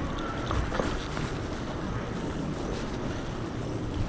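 Wind buffeting the microphone of a camera mounted on a moving electric bike, a steady low rumbling noise.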